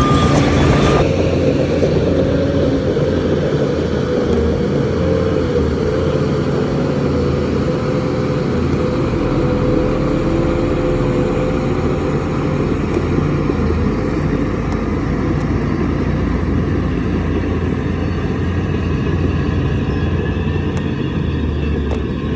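Heavy diesel engine running steadily, a continuous low rumble with a slightly wavering hum above it.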